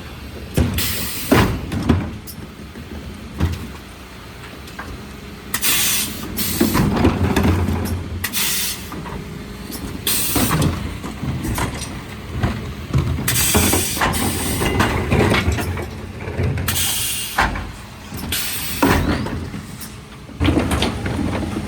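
Mercedes Econic refuse truck running with a low steady rumble, broken by several short hisses of compressed air.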